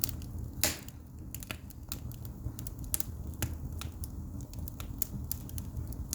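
Pine logs burning in a fireplace, crackling with sharp, irregular pops, the loudest one under a second in.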